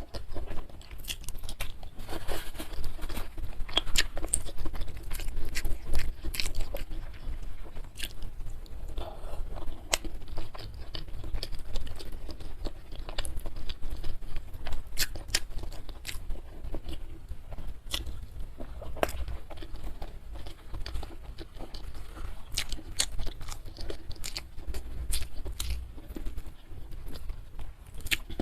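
A person eating close to the microphone: chewing with frequent sharp crunches and mouth clicks at an irregular pace.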